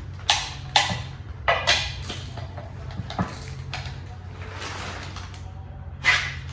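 Click-type torque wrench tightening bell housing bolts on steel, a handful of sharp metallic clicks and clanks at irregular intervals, in pairs near the start and singly later, over a steady low hum.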